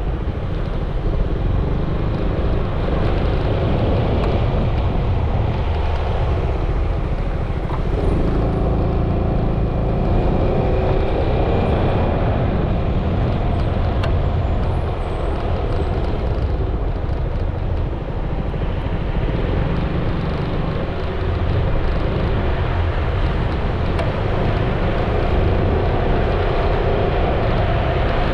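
Riding noise from a Yamaha XMAX 300 scooter under way: wind buffeting the microphone over steady engine and road noise, with a brief dip in level about 18 seconds in.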